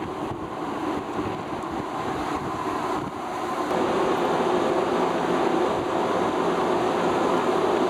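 Steady rumble and hum of a ship under way, its engines and machinery running, with wind buffeting the microphone. The sound grows louder about three and a half seconds in.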